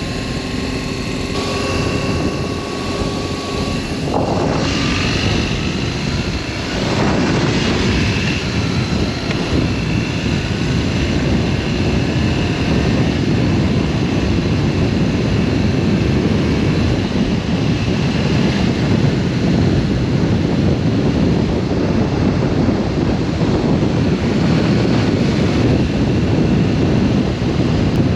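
BMW R1200S boxer-twin engine running under way, with wind rushing over the microphone. The engine's pitch shifts about four to seven seconds in, then a steady rush of engine and wind noise holds as the bike cruises.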